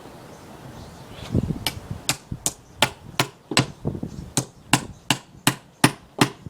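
Hammer striking a chisel in quick, even blows, about three a second, chipping chunks of wood out of a log. The blows start about a second and a half in, after a single duller knock.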